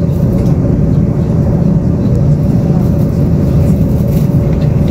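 Steady low rumble of a moving Tze-Chiang express passenger train, heard inside the carriage, with a faint steady hum above the rumble.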